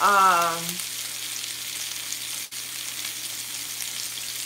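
Chicken pieces browning in a hot pan: a steady frying sizzle, cut off for an instant about two and a half seconds in.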